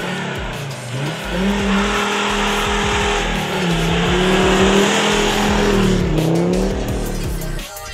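Volvo V70 2.5 TDI five-cylinder turbodiesel pulling hard under acceleration, the engine note holding high and dipping then climbing again at each gear change, about three times.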